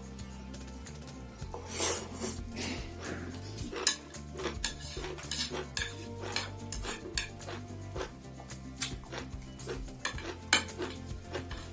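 Cutlery clinking and scraping against a plate while eating, as many short, irregular clinks.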